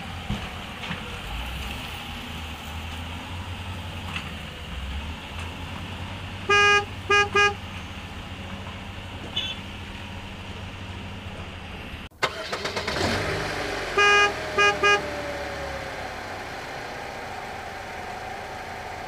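A vehicle horn sounds one longer honk and then two short ones, and the same pattern comes again about seven seconds later. Under it is a steady low engine rumble.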